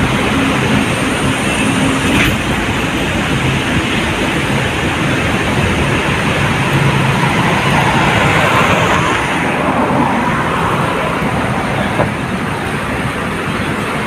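Loud, steady roar of noise with no clear pitch, swelling a little about halfway through.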